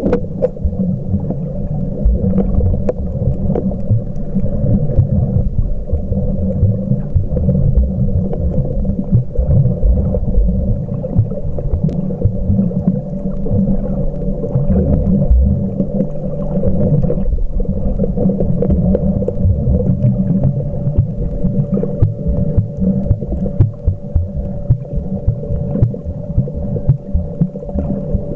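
Muffled underwater sound picked up by a camcorder held in the sea while snorkeling: a continuous low rumble of water movement with irregular soft knocks and a steady low hum.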